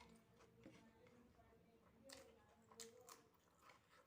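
Faint eating sounds: soft chewing with a few short, sharp mouth smacks about two and three seconds in.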